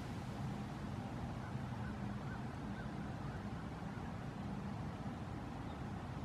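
A small vehicle's motor humming steadily at a low pitch. A few faint bird calls come through between about one and a half and three seconds in.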